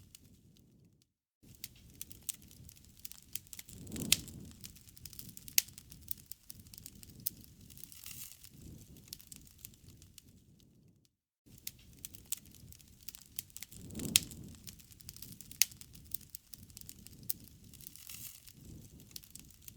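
Wood campfire crackling, with frequent sharp pops and snaps over a low, wavering rush of flame. The sound cuts out briefly twice, as a loop restarts.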